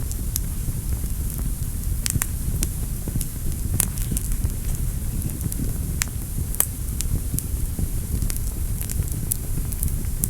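Wood fire burning in a fireplace: a steady low rumble of flames with scattered sharp crackles and pops, a couple of them louder near the middle.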